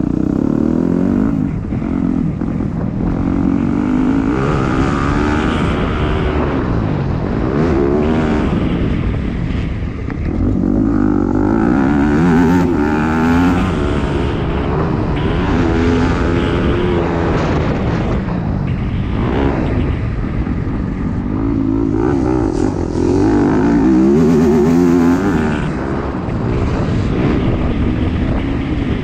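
Dirt bike engine running hard on a ride, its note climbing and dropping again and again as the throttle is opened and closed.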